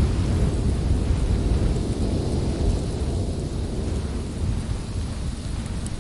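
Strong winter wind blowing in a steady low rumble that eases slightly toward the end.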